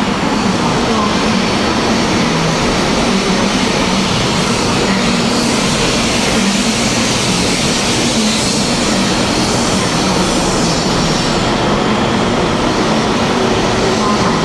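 Taiwan High Speed Rail 700T high-speed electric trainset pulling out of the station. Its cars run past with a steady noise of wheels and running gear.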